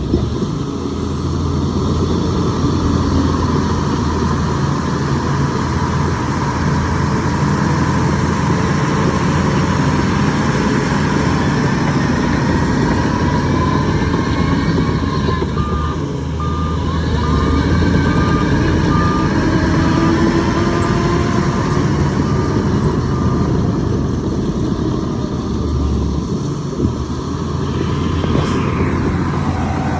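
Heavy diesel machinery running steadily at work, with a reversing alarm beeping at an even pace for several seconds in the middle.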